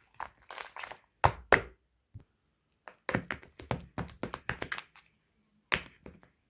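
Slime being squeezed and pressed by hand, making sharp clicks and crackling pops. Two loud snaps come a little over a second in, then a quick run of clicks from about three to five seconds.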